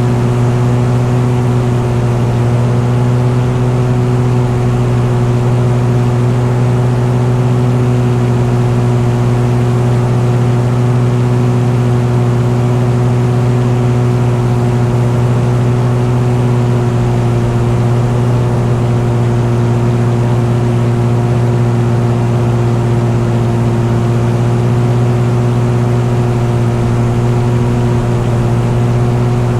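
An engine running steadily at constant speed, a loud even drone that holds one pitch throughout.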